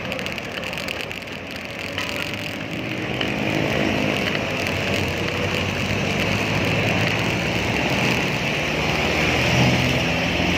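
Road traffic: motor vehicle engines running and passing, over a steady hiss.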